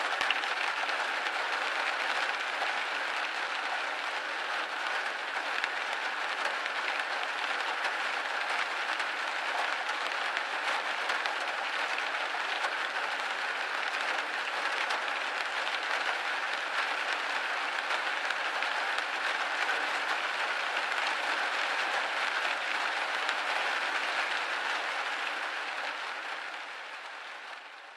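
Steady rain pattering on a window pane, a dense even hiss of drops, fading out near the end.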